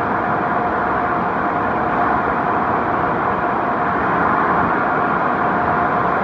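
Conveyor car wash tunnel equipment running: a steady, loud noise of machinery and water with a constant whine.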